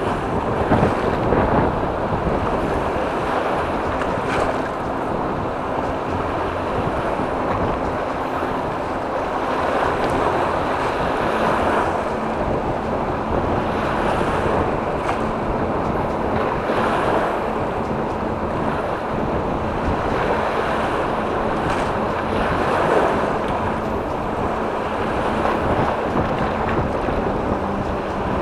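Wind-driven waves on a choppy reservoir washing onto the shore in repeated surges, with wind buffeting the microphone.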